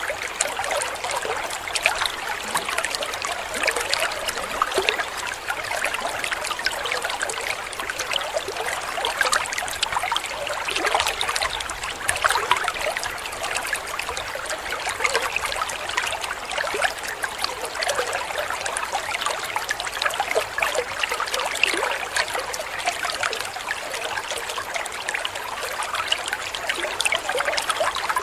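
Waterfall: water splashing and trickling steadily, a busy, unbroken splashing sound with no let-up.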